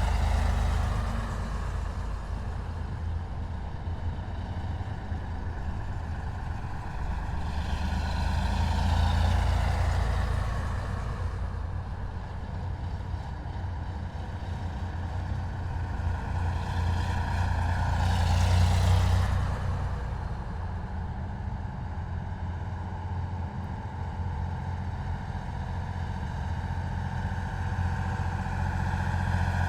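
Heavy military vehicles' diesel engines rumbling as a column drives past, with two louder swells about a third and two thirds of the way through as vehicles pass close by.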